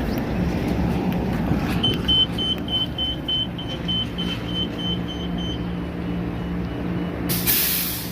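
Transit bus idling with a steady engine hum. A rapid electronic beeping, about four beeps a second, sounds for about four seconds, and near the end comes a short, loud burst of air hiss.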